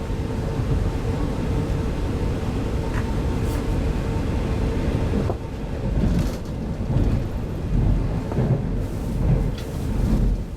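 Inside a 25T-series passenger coach running on the line: a steady low rumble of wheels on rail under a faint steady hum. The rumble shifts a little about five seconds in, with a few short knocks after it.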